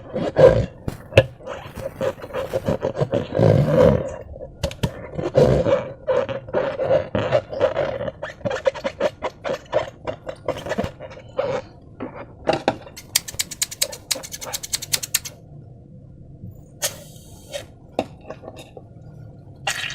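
Slime being squished and worked by hand, giving dense wet clicks and crackles, with a fast run of sticky pops about two-thirds of the way through.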